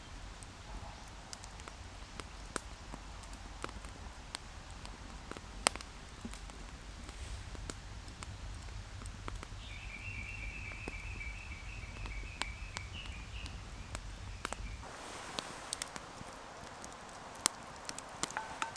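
Outdoor woodland ambience: scattered sharp clicks and snaps throughout, over a low rumble that stops about fifteen seconds in. Midway a bird gives a rapid series of repeated notes lasting about three seconds.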